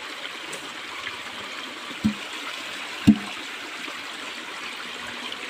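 Steady rushing noise like running water, with two brief, sharp sounds about two and three seconds in.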